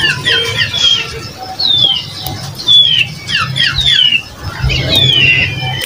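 Birds chirping: many short, high calls sliding downward in pitch, repeating and overlapping one another, over a low steady hum.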